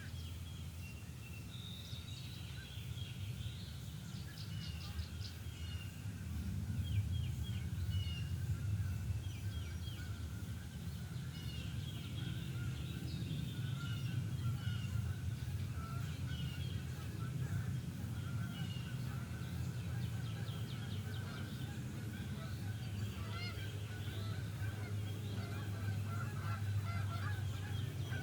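Geese honking on the lake, the honks coming more often near the end, with small songbirds chirping and trilling over a steady low rumble.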